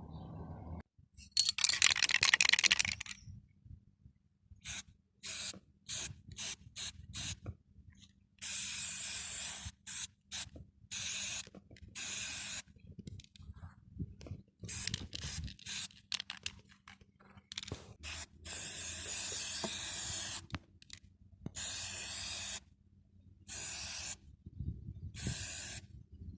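Pressurised spray hissing in a run of short bursts, with several longer ones of one to two seconds.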